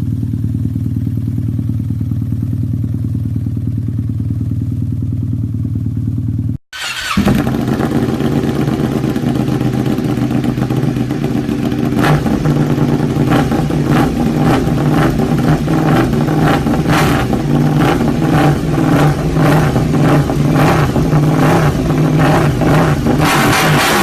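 Motorcycle engine running with a steady low hum. About six and a half seconds in, an abrupt cut brings a louder, fuller engine sound, which later picks up regular pulses about twice a second.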